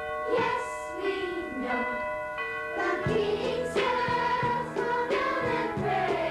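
Youth choir singing with instrumental accompaniment; bell-like held chords at first, with a bass line and fuller sound coming in about halfway through.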